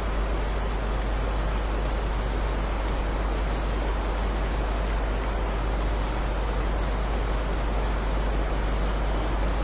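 Steady, unbroken heavy rain hiss, with a deep, even rumble underneath.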